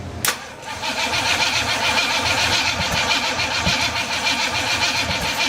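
Pontiac 350 V8 being cranked by its starter: a click as the starter engages, then steady, even cranking as the engine turns over without catching, the sign that no fuel is yet reaching the carburetor.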